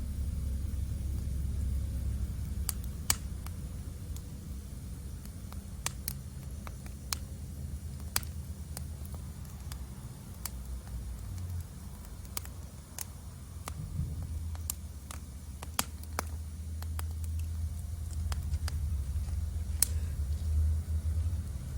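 Wood fire burning in a fire pit, crackling with irregular sharp pops and snaps every second or so over a steady low rumble.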